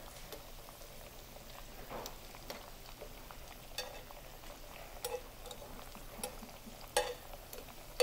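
Soft plantain slices frying in oil in a frying pan, a faint steady sizzle, with scattered light clicks of metal tongs against the pan as the slices are turned.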